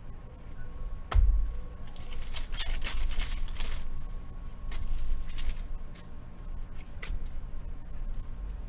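Trading card pack wrappers crinkling and cards being handled on a table, with a dull thump about a second in and a few sharp clicks later.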